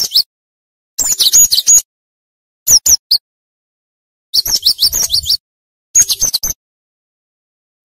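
Cinereous tit (gelatik batu) singing in short, rapid bursts of high, quick-fire notes, with brief pauses between the bursts.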